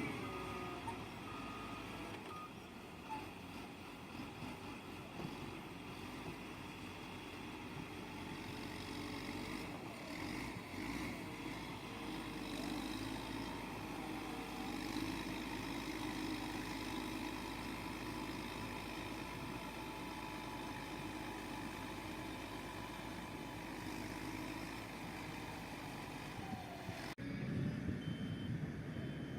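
Heavy construction machinery running steadily, with the sound changing abruptly to another machine near the end.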